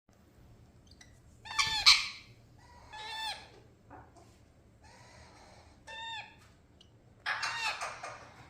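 Pet parrots calling in a series of short, pitched squawks that arch up and down. The loudest comes about two seconds in, and a longer run of calls comes near the end.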